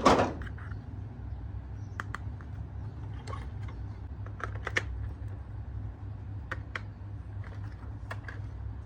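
Scattered light clicks and taps, a few at a time and irregular, over a steady low hum.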